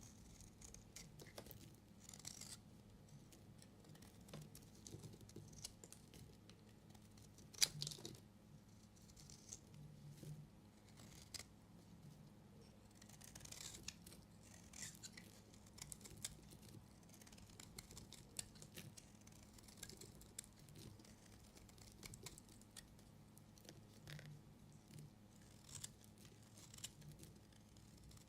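A knife cutting through bars of soap: faint, intermittent scraping and crunching strokes, with one sharp click about seven and a half seconds in.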